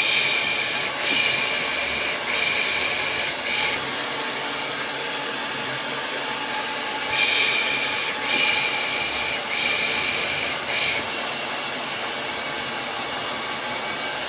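Hair dryer running steadily, with a person's rhythmic 'pış pış' shushing over it, the baby-soothing hush. The shushes come in two runs of four, three longer and one short, about seven seconds apart.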